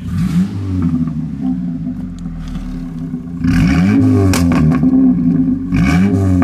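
Ford Focus engine through a straight-pipe exhaust, revved up and down from idle several times. The longest and loudest rev comes about three and a half seconds in, with another near the end; it sounds like the muffler has fallen off.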